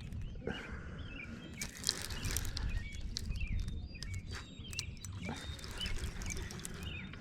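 Birds chirping in short, repeated calls over a steady low rumble, with scattered light clicks.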